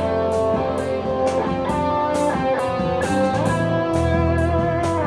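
Rock band playing an instrumental passage: held electric guitar notes over bass and a steady drum beat.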